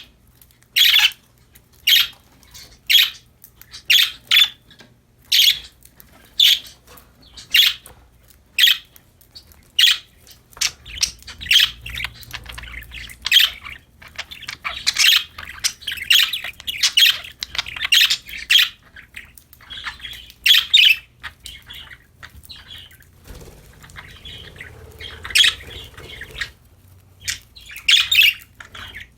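Budgerigars chirping and squawking: sharp, short calls about once a second, with a busier stretch of overlapping chatter in the middle.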